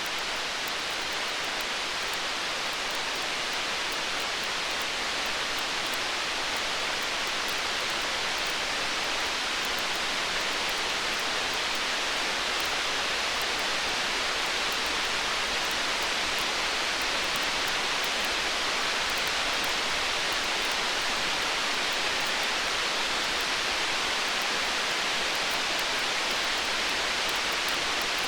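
Storm ambience: a steady hiss of rain with faint crackles from a wood fire.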